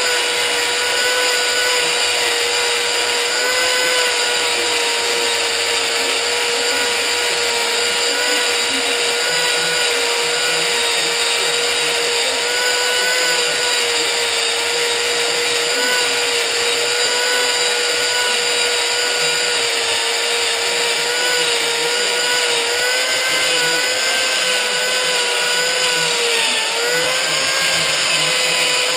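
Rubber decal-eraser wheel spun by a power drill, rubbing decals off a motorcycle's paint: a steady, even whine, its pitch dipping briefly a couple of times near the end.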